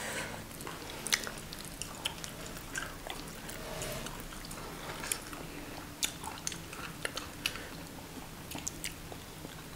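Close-miked chewing and mouth sounds of people eating fried tilapia and banku by hand, with irregular small sharp clicks and crunches.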